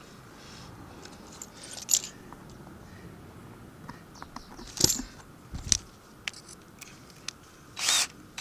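Scattered small metallic clicks and clinks of screws and tools being handled, with a few knocks, then a short burst of a power drill near the end as screws go into the skylight frame.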